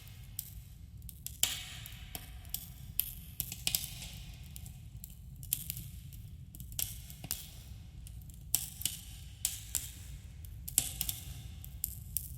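Campfire burning, wood crackling and popping in irregular sharp snaps over a steady low rumble, with a subtle echo from the surrounding cave.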